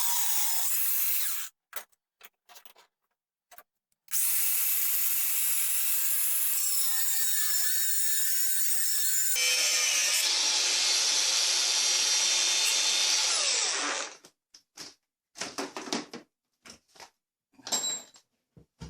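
Angle grinder cutting lengths of threaded steel rod (all-thread), a high steady hiss in three long runs with a short break after the first. It stops about fourteen seconds in, and a scatter of short knocks and clicks follows as the pieces are handled.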